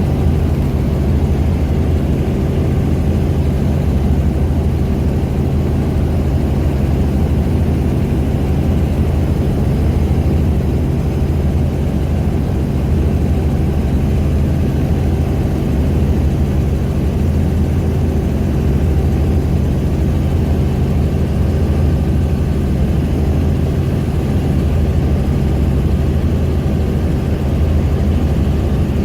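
Helicopter engine and rotor noise heard on board in steady flight: a constant low drone with steady deep hums and no change in level.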